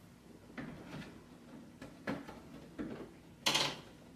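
Plastic drop-front shoe boxes being handled: several light knocks and clicks, then a louder clatter of plastic about three and a half seconds in.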